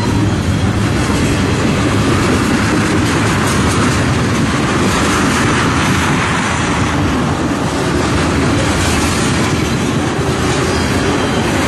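Freight train of tank cars passing close by: a loud, steady rumble and clatter of steel wheels on the rails.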